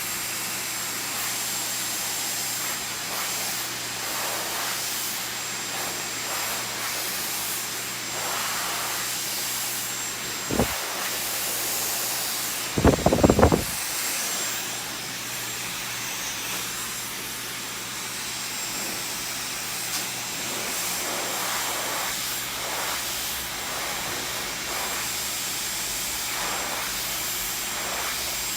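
Handheld hair dryer blowing steadily. About ten seconds in there is one sharp knock, and a couple of seconds later a quick run of louder knocks.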